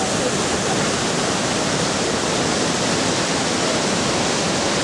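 Iguazu Falls pouring: a steady, even rush of falling water.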